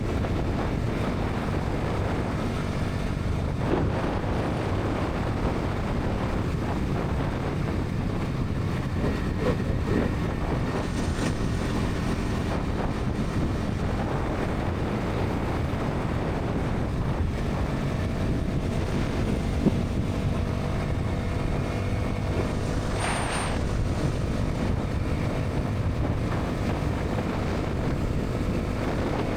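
Bajaj Pulsar NS 200's single-cylinder engine and exhaust running steadily at highway speed, mixed with wind rush on the microphone.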